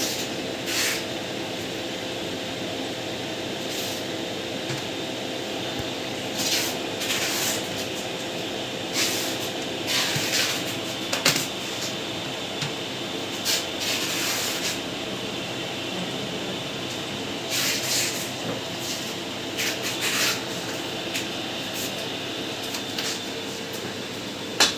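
Electrofusion welding machine running through its fusing cycle: a steady electrical hum with fan noise, broken by short, irregular hissing noises.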